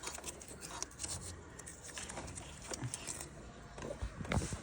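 Faint, scattered clicks and taps of hand tools working on engine bolts, with a few sharper knocks about four seconds in.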